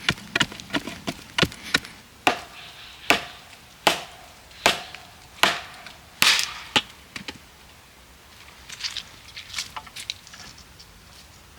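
Wood being chopped: a run of sharp, quick blows, then slower, louder strokes about one a second. Only faint scattered knocks and rustles follow in the last few seconds.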